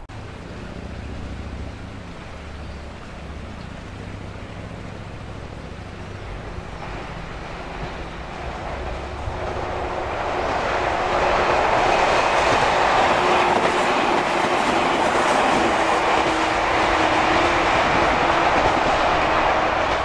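Shinano Railway 115-series electric train running along the track toward the listener. It is a low rumble at first, swelling from about a third of the way in to loud wheel-on-rail running noise, with a faint steady hum under it, for the second half.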